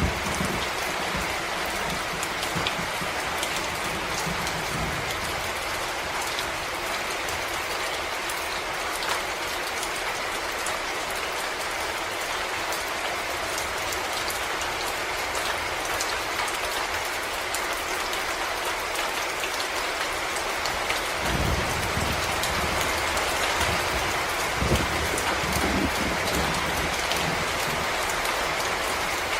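Steady rain falling on forest leaves and ground, an even hiss. A low rumble of distant thunder fades out over the first few seconds, and more low rumbling comes in about two-thirds of the way through.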